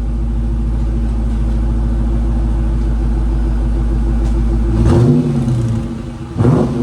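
Dodge Charger R/T's 5.7-litre Hemi V8 idling steadily, then revved about five seconds in and again near the end. This is the car's exhaust before the mid-muffler delete.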